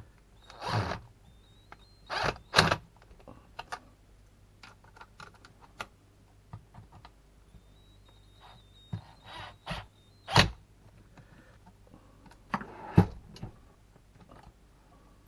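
Irregular clicks, knocks and scrapes of a plastic RC car chassis and parts being handled and worked on by hand, with a few louder knocks about two and a half seconds in, about ten seconds in and near the end.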